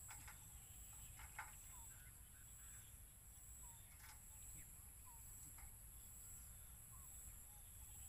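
Near silence in an open field: a few faint, short chirping bird calls scattered through, with a few soft clicks and a steady high whine in the background.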